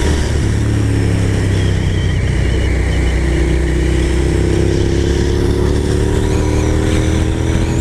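Suzuki SV650S motorcycle's V-twin engine running while riding along, with wind noise over it. Its note rises slowly from about three seconds in as the bike speeds up.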